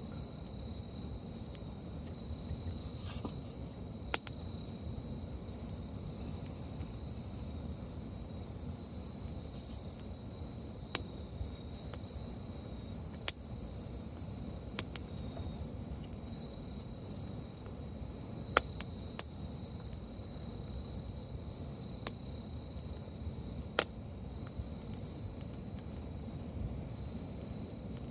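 Wood campfire crackling, with sharp pops every few seconds over a low steady rumble, against a steady high chorus of crickets chirping.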